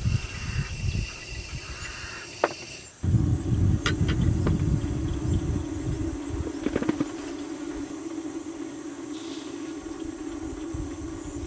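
Wind buffeting the microphone with a low rumble, over a steady high trill of insects. The sound changes abruptly about three seconds in, and a few light clicks follow.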